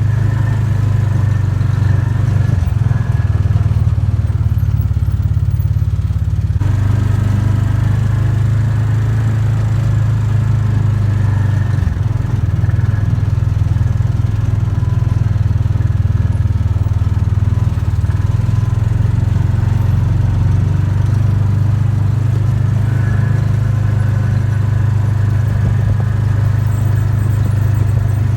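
A small vehicle's engine running steadily as it drives along, a loud low drone with a slight change in its sound about six and a half seconds in.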